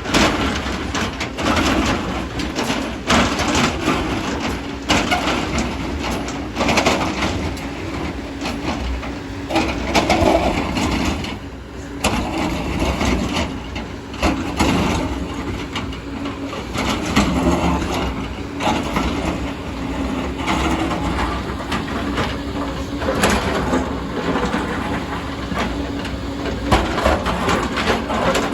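Excavator's diesel engine running steadily under load, with frequent irregular knocks and crunching from the bucket working rock and soil.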